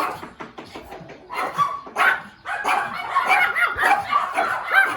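Small puppy barking and yipping in quick, high-pitched calls, sparse at first and then a dense, rapid run from about two seconds in.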